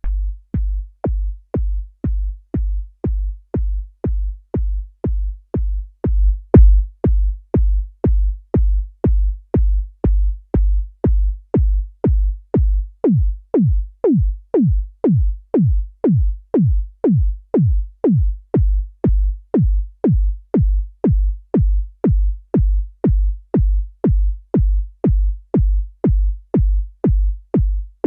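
Synthesized electronic kick drum in Ableton's Operator, looping about twice a second. Each hit is a quick downward pitch sweep into a low boom. It gets louder about six seconds in, and the pitch drop stretches out longer for a few seconds in the middle as the sound is tweaked.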